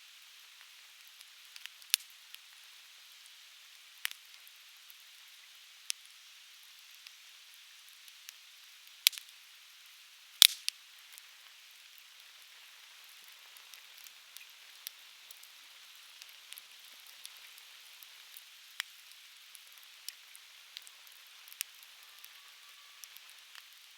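Conifer firewood burning in an open fire pit, crackling with sharp pops scattered irregularly, the two loudest about nine and ten and a half seconds in, over a steady soft hiss.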